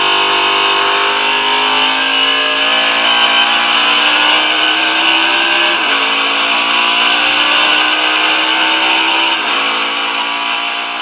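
C4 Corvette race car's V8 engine accelerating hard, its pitch climbing steadily, with two upshifts where the pitch drops suddenly, one about halfway through and another near the end.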